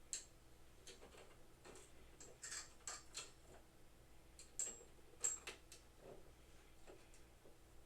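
Irregular light clicks and taps, about a dozen short sharp ones spread unevenly, as small parts are handled and fitted during assembly.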